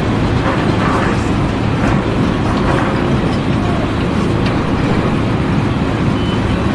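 Steady low rumble of a heavy engine running, with a repeating high beep starting near the end.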